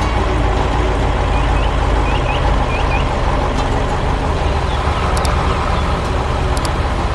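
Heavy vehicle engine sound effect running steadily with a low rumble, with a few faint high chirps about two to three seconds in.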